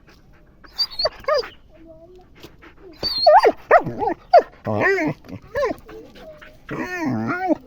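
Six-month-old female German Shepherd puppy giving short, pitched, whining calls in four bursts: a brief pair about a second in, a louder run in the middle, and a last burst near the end.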